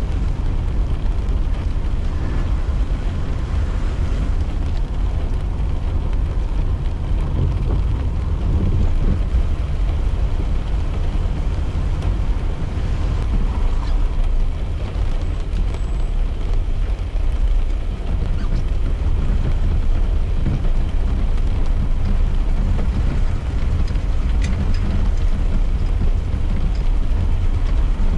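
Steady low rumble of a car driving in the rain, heard from inside the cabin, with a lighter hiss of rain and wet road over it.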